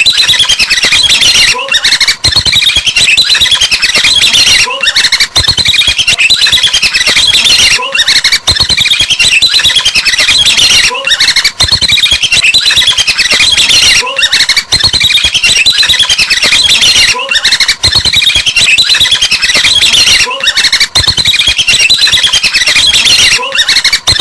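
Recording of chattering, squawking bird calls played on a loop, the same phrase repeating about every three seconds with a short break between repeats.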